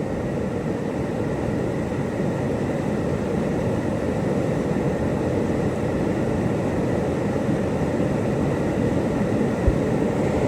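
Whitewater rapids rushing steadily close by, a dense low rumble of moving water, with one brief dull thump near the end.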